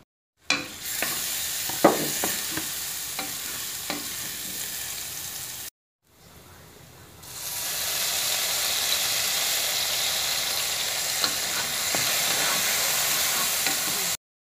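Minced garlic sizzling in hot oil in a wok, with a wooden spatula tapping and scraping the pan. The sound cuts out abruptly at about the halfway point. It returns and swells into a louder, steady sizzle as dark sauce is poured onto the hot garlic.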